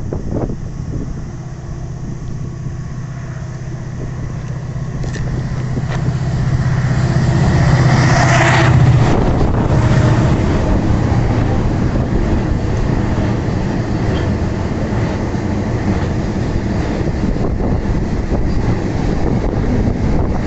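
Freight train passing: the locomotive's steady low hum grows louder and peaks about eight or nine seconds in as it goes by, then the wagons keep up an even rolling rumble on the track.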